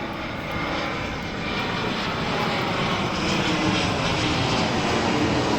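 Airliner flying low overhead, its engine noise a steady rush that grows gradually louder.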